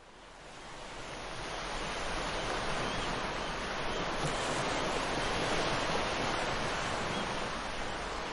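Sea surf washing on the beach, a steady rush of waves that fades in over the first two seconds.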